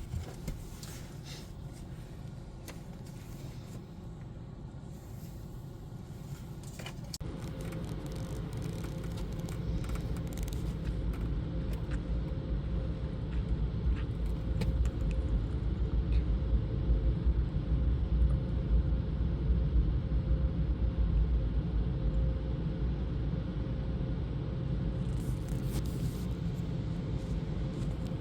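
Steady low rumble heard from inside a car at an automatic car wash. After several seconds a steady machine hum joins in and the rumble grows louder.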